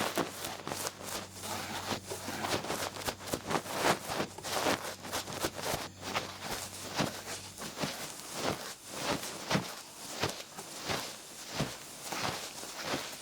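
Duck-feather ear pick brushing and scratching in an ear, in repeated soft strokes; about eight seconds in the strokes become slower and more separate, roughly one or two a second.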